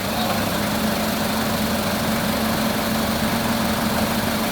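Forklift engine running steadily at a constant hum, with no change in speed.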